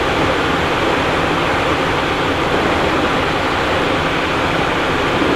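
Steady cockpit noise of a Cessna Citation Encore in flight: an even rush of airflow and engine noise with no change in level.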